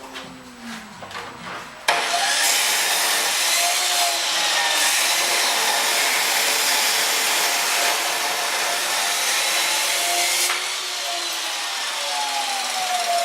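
Power saw cutting through steel pipe: it starts abruptly about two seconds in and runs steadily, a little quieter from about ten seconds on.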